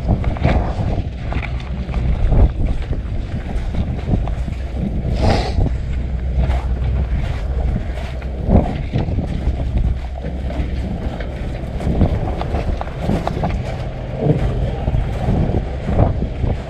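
Strong mountain wind buffeting the microphone: a steady low rumble that swells in gusts, with scattered short rustles and knocks.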